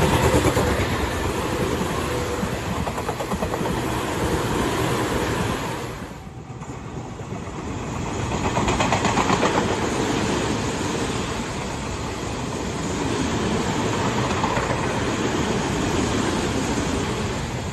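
Tobu Tojo Line train passing close by, its wheels clattering over the rail joints; the sound dips briefly about six seconds in, then swells again as more cars go by.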